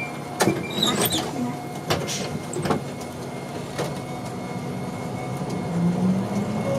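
City route bus idling at a stop, with a series of clunks and rattles in the first few seconds, then the engine note rising near the end as the bus moves off.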